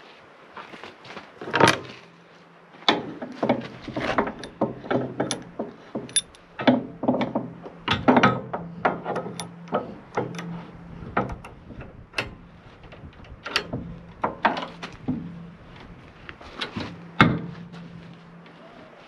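Irregular metal clanks, knocks and clicks of steel parts and tools being handled, two of them louder, one near the start and one near the end, over a low steady hum that comes and goes.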